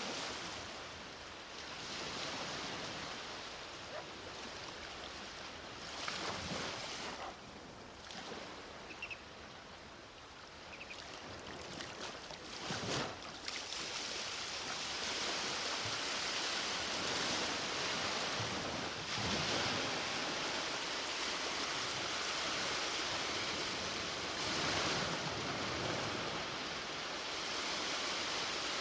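Sea waves breaking and washing up the beach at the water's edge, a continuous hiss of surf that swells and ebbs, softer a third of the way in and fuller and steadier through the second half.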